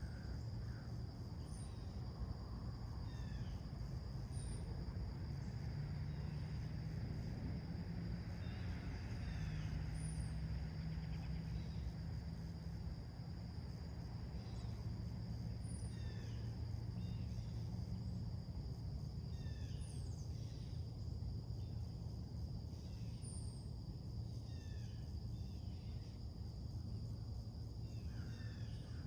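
Summer morning outdoor ambience: short scattered bird chirps and slurred notes every few seconds over a constant high insect drone and a steady low background rumble.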